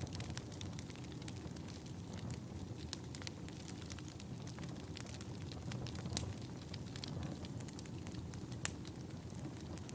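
Wood fire crackling in a fireplace: irregular small pops and snaps over a steady low rumble of burning logs, with one sharper pop near the end.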